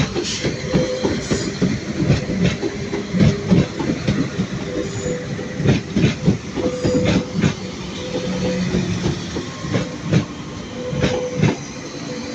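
Transport for Wales Class 197 diesel multiple unit running past, its wheels clattering over the track in a rapid, irregular run of clunks over a steady rumble.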